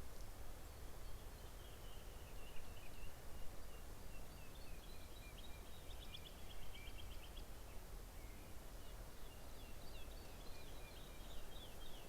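Small songbirds singing in the background: strings of quick high chirps and rapid trills, with a busier burst near the end, over a steady low outdoor rumble.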